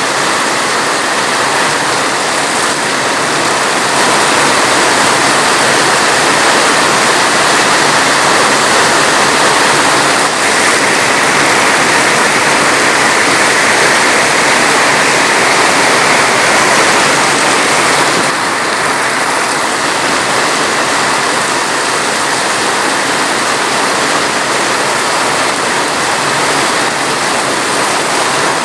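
Heavy rain falling steadily, a dense, even hiss of water, slightly louder from about four seconds in until about eighteen seconds in.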